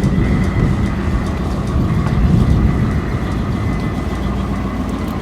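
1962 Ford pickup's 292 Y-block V8 running with a steady, deep rumble.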